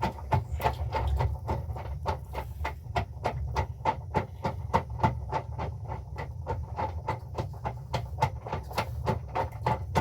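Rapid, regular knocking or striking strokes, about three to four a second, over a steady low rumble.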